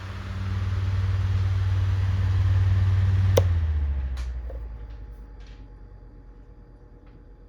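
Rowenta Turbo Silence Extreme 12-inch table fan blowing with a steady air rush and low motor hum. A sharp click comes about three and a half seconds in as it is switched to silent mode, and the rush winds down over the next couple of seconds to a much quieter run.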